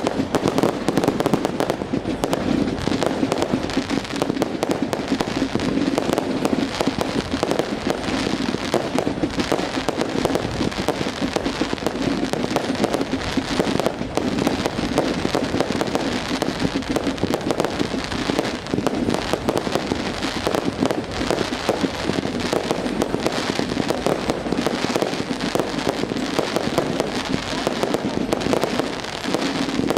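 Fireworks going off without pause: a dense, rapid stream of crackles and pops.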